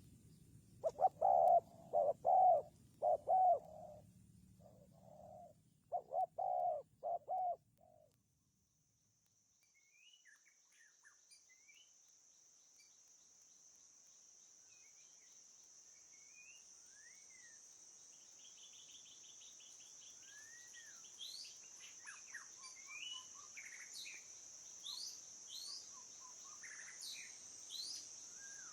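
A dove or pigeon cooing, a series of low calls over the first eight seconds. Then a brief silence, after which small birds chirp in scattered, quick calls over a steady high-pitched hiss that swells, the chirping growing busier toward the end.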